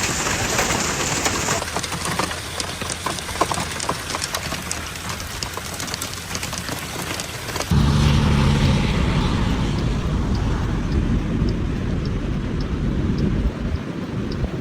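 Hailstones and rain striking hard, heard as many sharp ticks over a steady hiss. About halfway through, the sound cuts to heavy rain with a steady low hum and faint regular ticks.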